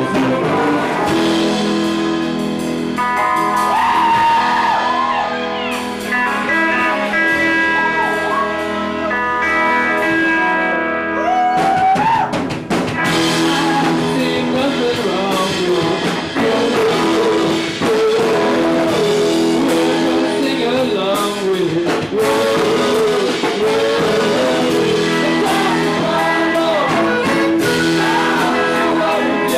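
Live band performing with singing, electric guitar and drums. The recording is loud and roomy.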